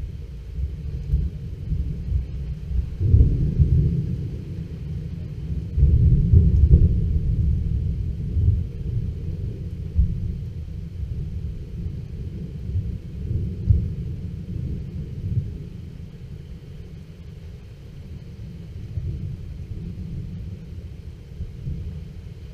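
Rolling thunder: a long, low rumble that swells about three seconds in, is loudest around six to seven seconds with a few sharper jolts after, then slowly dies away.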